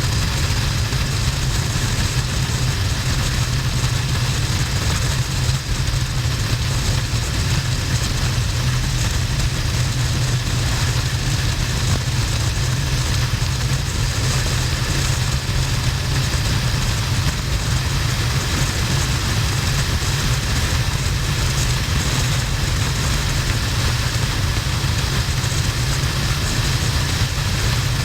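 Harley-Davidson XL1200N's air-cooled V-twin running steadily at motorway speed, under a constant rush of wind noise.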